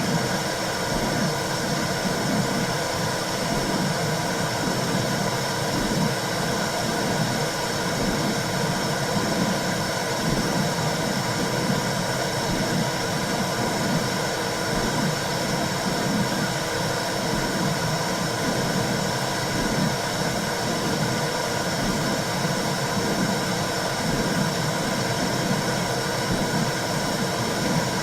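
Womb-sound recording for soothing a baby: a steady, low rumbling whoosh of noise that flickers but never stops.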